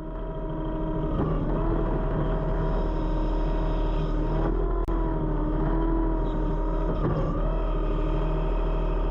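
An engine running steadily, its pitch dipping and recovering briefly three times as throttle or load changes.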